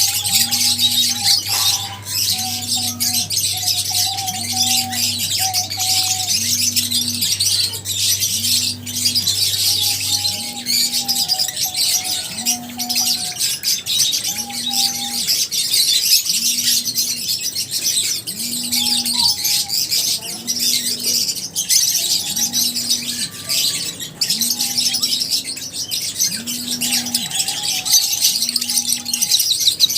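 A flock of lovebirds chirping continuously in a dense, high-pitched chatter. A low pulse repeats about every one and a half seconds underneath, and a low hum drops out about a third of the way through.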